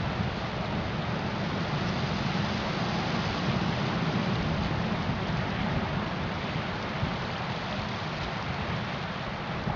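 Steady storm noise aboard a ship at sea: wind and rushing water, with a low rumble of wind buffeting the microphone.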